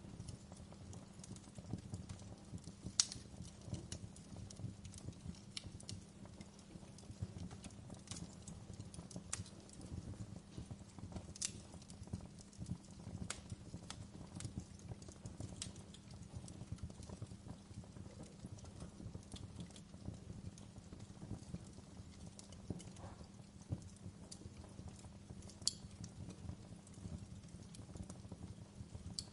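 Wood fire crackling, with irregular sharp pops over a steady low rumble. The loudest pops come about three seconds in and near the end.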